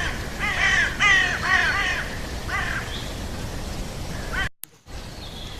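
Crows cawing: a quick run of harsh caws about half a second apart, then a couple more spaced out. The sound cuts out abruptly for a moment near the end.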